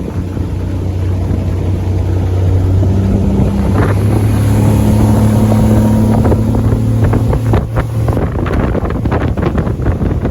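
Outboard boat motor running steadily, back on the water after 7 years laid up. About eight seconds in, the motor's steady hum fades under gusts of wind on the microphone.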